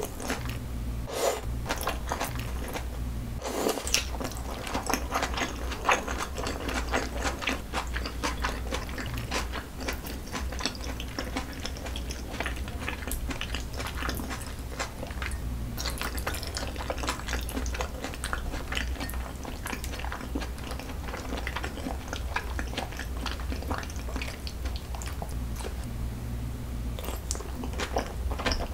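Close-miked chewing of thick raw salmon sashimi with sliced onion in cream sauce: soft, wet mouth sounds with many small clicks, over a steady low hum.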